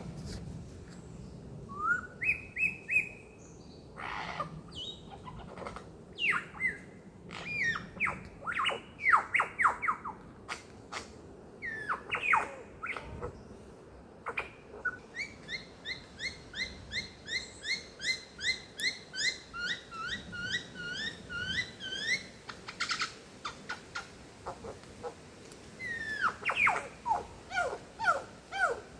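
Forest birds singing: a varied series of sharp, quickly falling calls, then a fast run of repeated notes that climbs steadily in pitch for about seven seconds, with more calls near the end.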